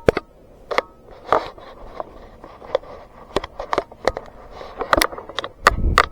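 Footsteps crunching and crackling on forest-floor litter of a woodland trail: irregular sharp crunches, about one or two a second, with a low rumble near the end.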